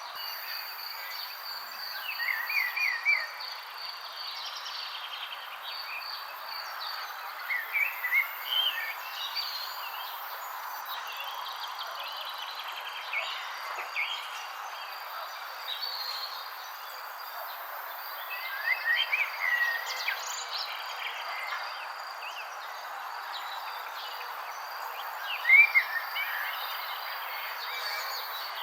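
Birds chirping in short quick clusters every few seconds, the loudest near the end, over a steady, evenly pulsing insect trill and a constant background hiss.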